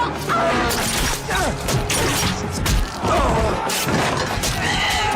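Television drama soundtrack: music with sudden crashing strikes and voices crying out.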